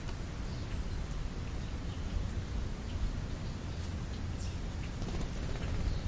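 A few faint, short bird calls from birds feeding at a dish on the ground, over a steady low rumble.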